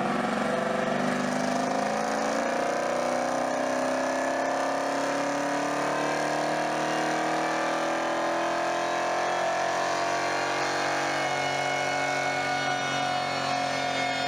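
Chevrolet El Camino race car's engine pulling hard under load on a chassis dyno, its pitch climbing slowly and steadily through a dyno pull, then levelling off near the end.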